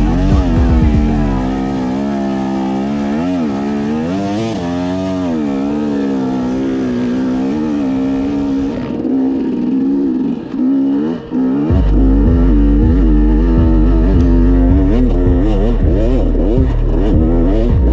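Enduro motorcycle engine revving up and down over and over as it is ridden off-road, with a brief drop in level a little past the middle and a heavy low pulsing after it.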